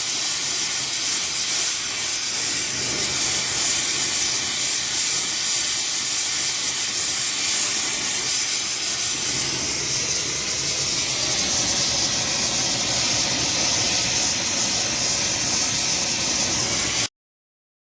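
Brazing torch flame hissing steadily while heating a cast-iron manifold for a braze repair. It cuts off suddenly near the end.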